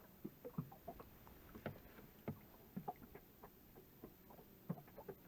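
Small waves lapping and knocking against the hull of a small boat: irregular light knocks and taps, several a second, over a faint steady hiss.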